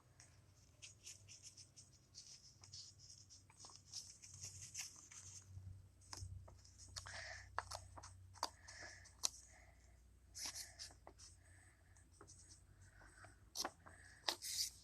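Faint scratching and crackling of a sheet of paper being poked and worked through with scissor tips to make a small starting hole for cutting out an eye opening, with scattered light clicks.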